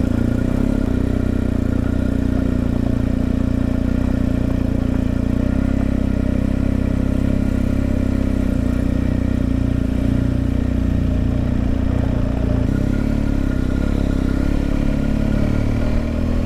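BMW R1250GS boxer-twin engine running steadily under way, with a change in the engine note about two-thirds of the way through.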